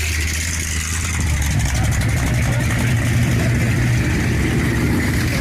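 Car engine running steadily at low speed.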